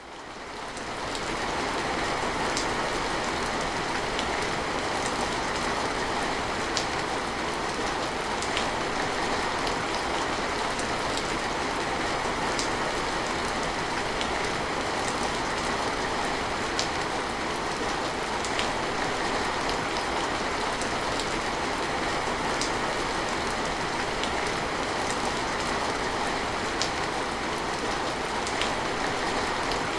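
Steady rain falling, an even dense hiss with scattered sharper drop hits every second or two; it fades in over the first second or two.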